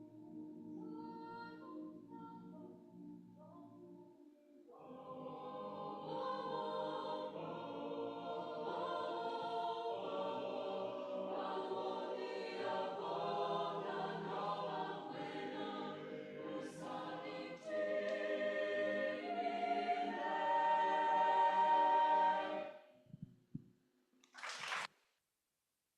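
Choir singing a cappella: a soft passage of held low voices, then the full choir comes in about five seconds in, swells louder and ends about three seconds before the close, followed by a brief burst of noise.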